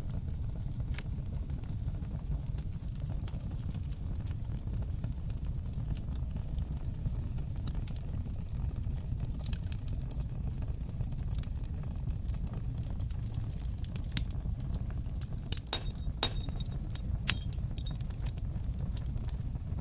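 Wood fire crackling in a stone fireplace: a steady low rumble of burning with scattered sharp pops. The pops come thicker near the end, the loudest a single sharp snap.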